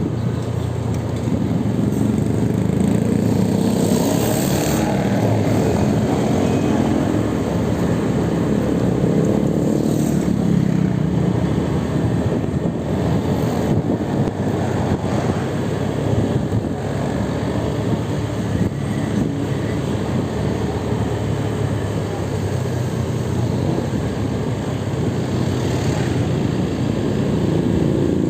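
Steady road traffic noise of motor vehicles and motorcycles, with vehicles going past about four seconds in, about ten seconds in and near the end.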